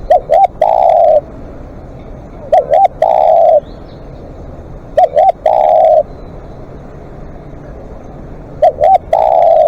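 Spotted dove cooing: four identical phrases about two and a half seconds apart, each two short rising notes followed by one longer held coo.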